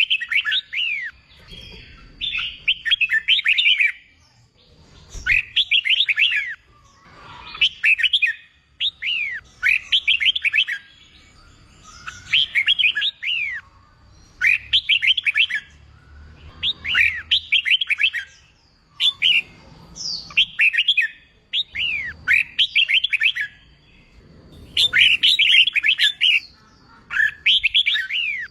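Red-whiskered bulbul singing: about a dozen short phrases of quick rising and falling whistled notes, one every two seconds or so, with short pauses between them.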